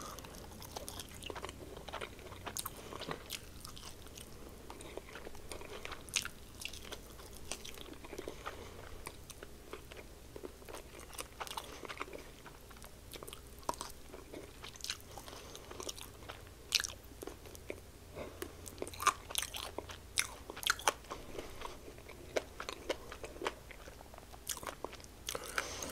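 A close-miked person biting and chewing a fried chicken wing in honey lemon pepper breading: quiet chewing with many short, scattered crackles. The breading is not as crunchy as he is used to from Popeyes wings.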